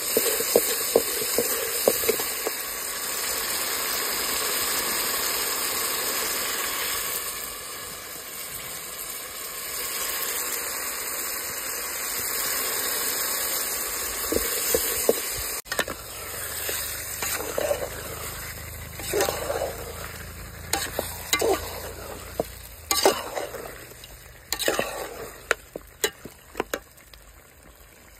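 Chicken curry sizzling in a large metal pot over a wood fire while it is stirred, the utensil scraping and knocking against the pot. The sizzle is steady at first, then quieter in the second half, where scattered sharp scrapes stand out.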